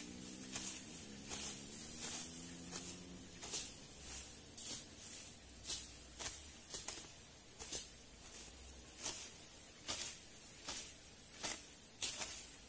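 Undergrowth being slashed by hand with a blade: short, sharp, irregular strokes, about one to two a second, over a steady high-pitched hiss.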